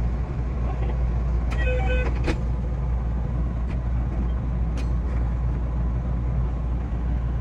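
Steady low rumble of a 227 series electric train heard from inside the train, with a few faint clicks and a brief cluster of short higher tones about two seconds in.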